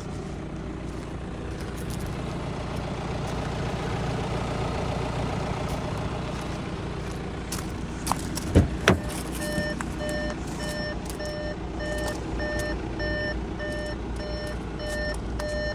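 The Audi Q5 2.0 TDI diesel runs steadily at idle. About eight and a half seconds in come two quick thumps. From about nine and a half seconds the car gives a warning beep that repeats evenly, roughly one and a half times a second.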